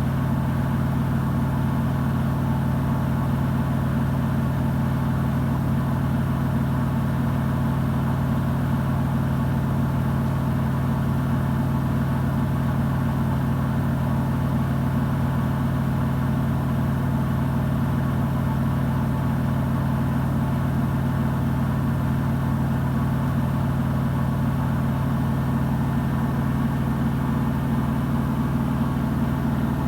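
Samsung WW90J5475FX digital inverter washing machine spinning its drum at a steady high speed, a constant even hum with no change in pitch or level.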